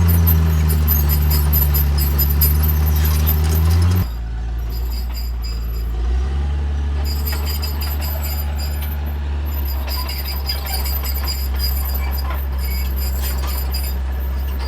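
Heavy diesel engine of earthmoving machinery running steadily under work. About four seconds in the sound drops abruptly and changes, then continues at a steady lower pitch, with faint high-pitched squeals above it.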